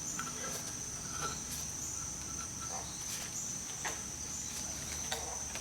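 A steady high-pitched tone held throughout, with a few faint clicks and light knocks.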